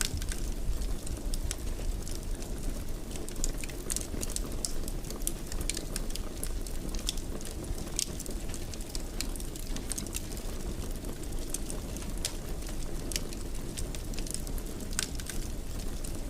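Wood fire crackling in a fireplace: a steady low rumble with frequent irregular sharp pops and snaps.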